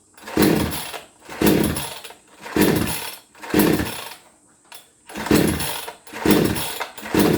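Recoil starter of a Giantz two-stroke chainsaw pulled about seven times in quick succession, roughly one pull a second with a short pause midway, with the choke out. Each pull turns the engine over with a brief whir, but it never fires or catches: a saw that won't start.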